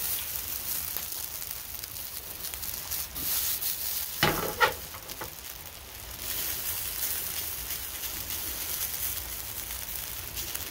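Shredded hash brown potatoes frying in oil in a nonstick skillet, a steady crackling sizzle, with two brief louder knocks about four and a half seconds in.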